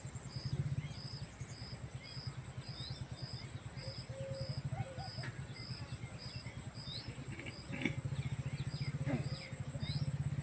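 Outdoor ambience: a bird repeating a short high note at an even pace, nearly twice a second, with other small bird chirps, over a low steady drone.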